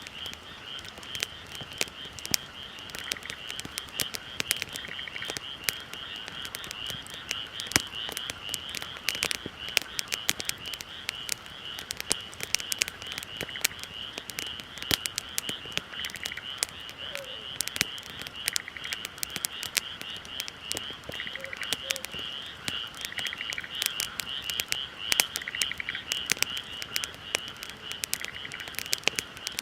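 Wood bonfire crackling, with frequent sharp pops and snaps. Behind it, a steady chorus of high animal calls repeats in fast pulses.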